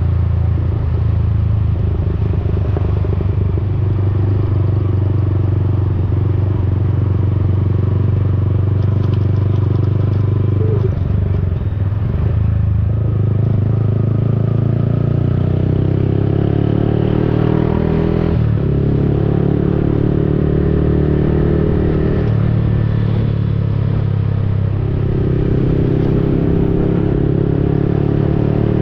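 Yamaha XSR155's single-cylinder four-stroke engine running through an aftermarket Akrapovic-replica exhaust while riding. It runs steadily, with its pitch climbing and dropping back several times as the throttle opens and closes and gears change.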